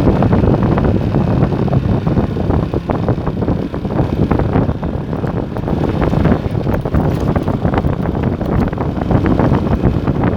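Motorstar Star X 125 motorcycle under way, its engine running steadily while wind buffets the microphone.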